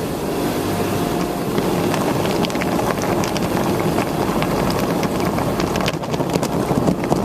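Express tunnel car wash at work: friction brushes and water spray washing over a car, a steady rush with many quick slaps that come thicker from about two seconds in.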